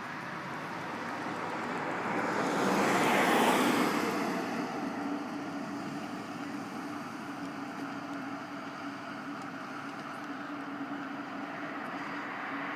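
A road vehicle passing: a rush of noise that swells to a peak about three seconds in and fades away, followed by a steady low engine hum.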